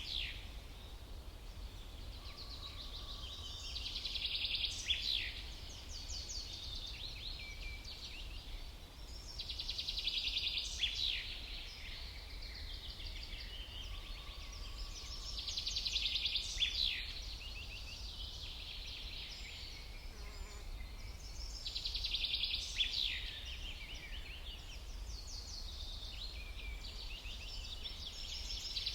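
A songbird singing the same short, high, trilling phrase with quick downward slurs about every six seconds, five times in all, over a steady low rumble.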